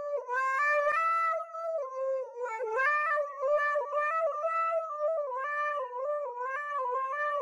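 Siberian husky howling into a karaoke microphone: one long, unbroken howl that wavers up and down in pitch in short steps, like singing.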